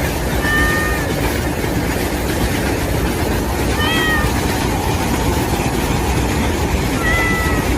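Kitten meowing three times, each a short high call, about three seconds apart, over a steady loud noise.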